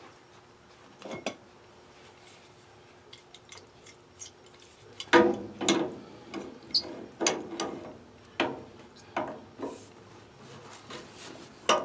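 Hand tools clanking and clicking on metal fittings as a hose is fastened to the boiler's drain valve: a few scattered clicks, then from about five seconds in a run of sharp metallic clanks, a bit under two a second.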